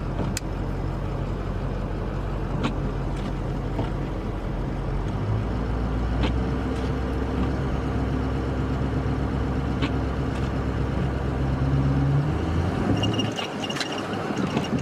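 A vehicle engine running steadily, then working harder about five seconds in and holding there for roughly seven seconds before easing off: a pull to free a vehicle stuck in the snow. Short high beeps sound near the end.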